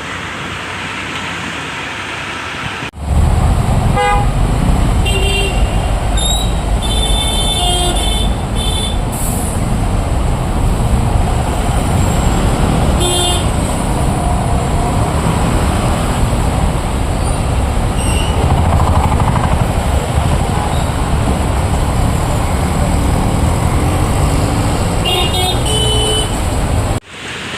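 Road traffic with a loud steady rumble and vehicle horns honking at several points. It starts and stops abruptly.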